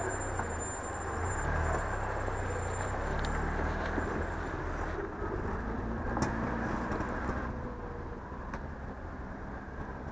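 Off-road 4x4's engine running, loudest near the start and fading away over the following seconds, with a thin high whine over it for the first few seconds.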